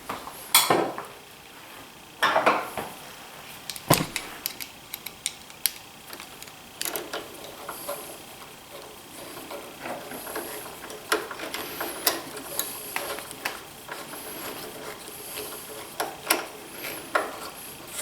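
Irregular clinks, knocks and rattles of metal parts and hand tools being handled while a DeWalt 735 thickness planer is put back together. A few louder knocks fall in the first four seconds, followed by lighter scattered clicks.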